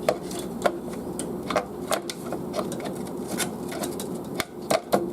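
Irregular light clicks and taps as a graphics card and its metal bracket knock against the computer case while it is lined up with the motherboard's PCIe slot, over a steady low hum.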